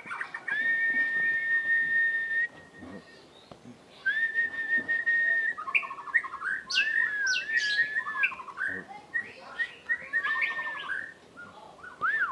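White-rumped shama (murai batu) in breeding condition singing: two long, clear, steady whistles, then a quick run of varied sliding whistles and sharp chips.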